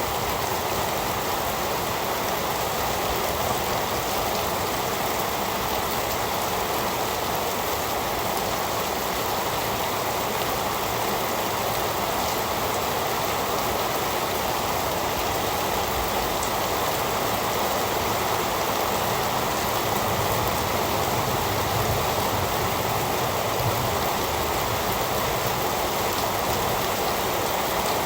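Steady heavy rain falling, a dense even hiss of drops with no thunder or breaks.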